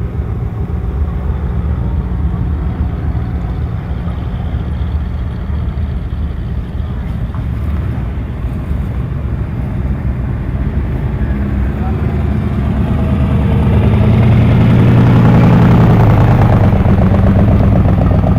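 Car engines rumbling as cars drive out. One grows louder and passes close, loudest about three-quarters of the way through, with a deep engine note.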